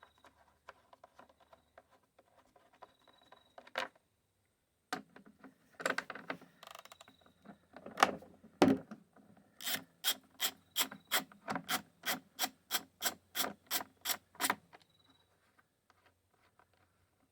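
Ratchet wrench with a 10 mm socket undoing the bolts on a mower's starter housing. There are scattered light clicks and knocks at first, then an even run of about fifteen rasping ratchet strokes, about three a second, which stops about two-thirds of the way through.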